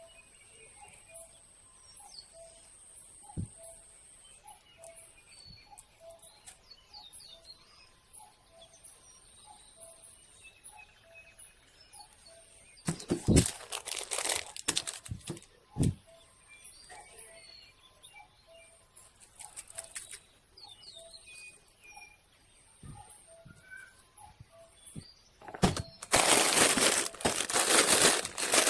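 Faint bird chirps and a soft call repeating about once a second, over a thin steady high tone. Loud crackling, rustling bursts break in about halfway through and again near the end.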